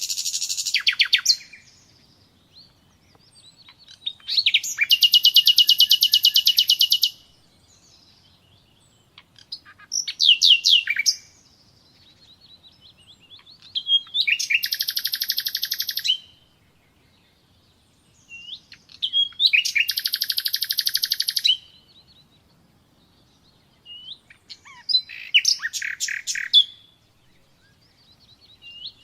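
Nightingale singing: about six song phrases, each a couple of seconds of rapidly repeated notes and fast trills, separated by short pauses of a few seconds.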